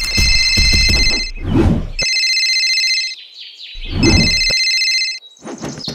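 Telephone ringing in three rings about two seconds apart, each a high trilling ring lasting about a second, with a low rumble under the first and last. Bird chirps start near the end.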